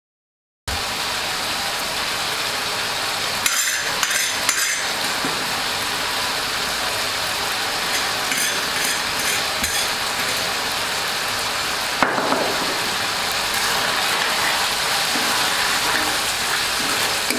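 Buffalo meat sizzling as it fries in oil in a metal wok, a steady hiss that starts suddenly just under a second in. A metal spoon clinks and scrapes against the pan in short bursts as it stirs, with the sharpest clink about twelve seconds in.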